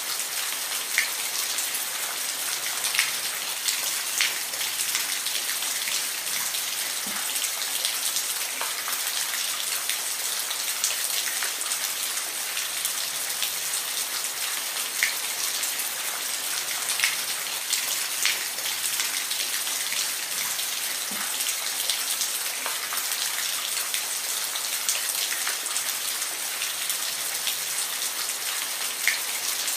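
Steady rain falling, with a constant hiss and frequent sharp individual drops ticking on a hard surface close by.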